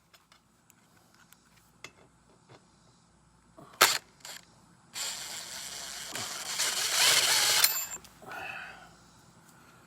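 A couple of sharp clicks, then a harsh mechanical whirring noise for about three seconds that grows louder and cuts off abruptly, from hand work on the frame during a repair.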